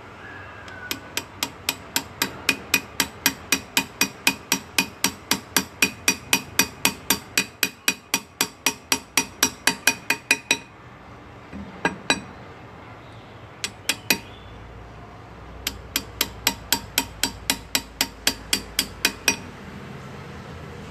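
Hand engraving: a small hammer tapping a graver chisel into metal, about four sharp, ringing strikes a second. A long run stops about halfway through, there are a few single taps, then a second run.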